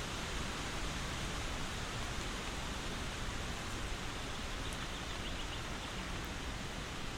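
Steady rain falling: an even, unbroken hiss of rain with a few faint light ticks of drops near the end.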